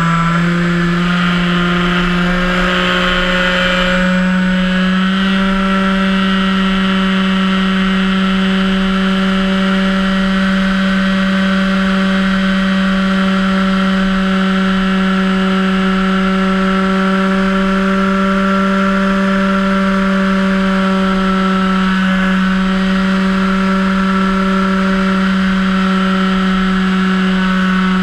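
Electric motor and propeller of a HobbyKing Cessna 182 1.5 m RC seaplane running with a steady whine. The pitch steps up twice in the first five seconds, then holds.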